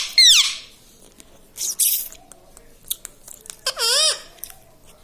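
Ringneck parrot calling: two short shrill calls that rise and fall in pitch, one just after the start and one about four seconds in, with a raspy squawk around two seconds and a few small clicks between.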